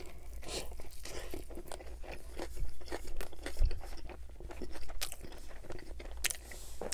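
Close-miked mouth chewing a bite of a Chicago-style hot dog: a run of irregular crunches and small wet mouth clicks.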